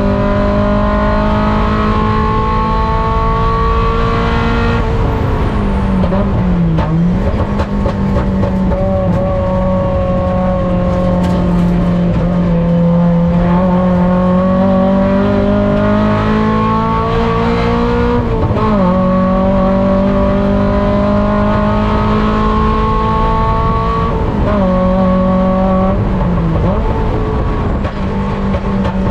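On-board engine sound of a Mazda Miata four-cylinder race car driven hard, its pitch climbing steadily under acceleration, then dropping sharply about five seconds in, again after about eighteen seconds, and twice more near the end as it slows for corners and climbs again.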